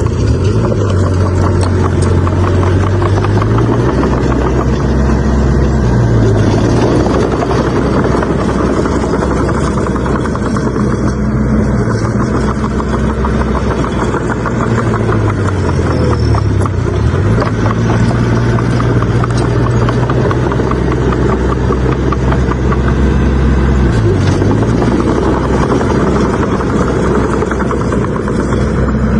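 Bulldozer's heavy diesel engine running steadily under load. Its pitch dips briefly and recovers a few times as the load changes.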